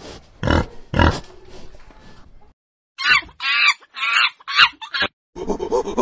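Wild boar grunting twice, low and loud, within the first second or so. About three seconds in comes a run of short, higher, wavering calls, and a dense run of repeated calls starts near the end.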